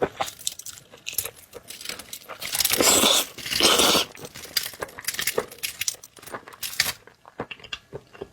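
Close-miked eating of shrimp: wet chewing and smacking with crunchy crackles, and two louder rushes of noise about three seconds in.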